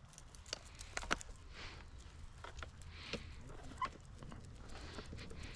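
Scattered light clicks and taps with a soft swish about every second and a half, the sounds of moving along a paved trail with a dog. A short high squeak comes about four seconds in.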